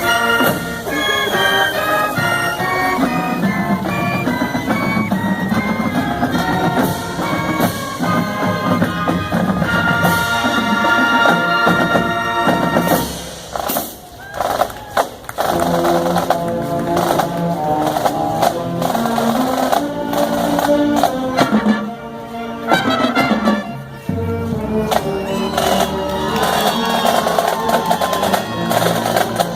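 High school marching band playing a tune on wind instruments over drums. The music dips briefly twice, about halfway through and again about three quarters of the way through.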